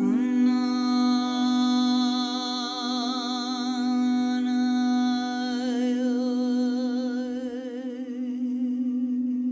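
Crystal singing bowl ringing a steady low tone, with a voice singing one long note matched to the bowl's pitch: it slides up into the note at the start, holds it, then wavers for the second half.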